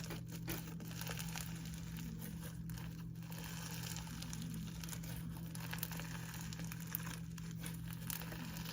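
Slime worked by hand, with faint crackling bubble pops and small crunches as air pockets burst, over a steady low hum.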